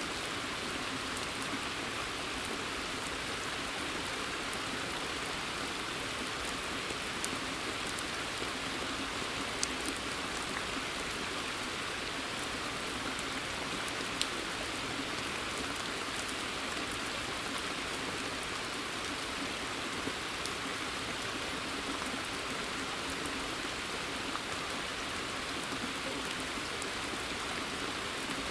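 Steady rain falling on a pond's surface and the surrounding forest, an even hiss with a few sharper single drips standing out now and then.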